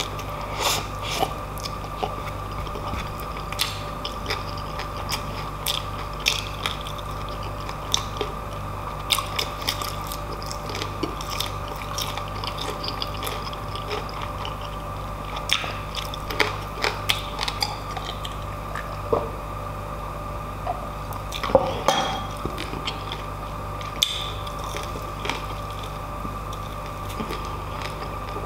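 Close-miked chewing and crunching of crispy fried pork belly and rice, with many sharp wet mouth clicks and crackles, over a steady low hum.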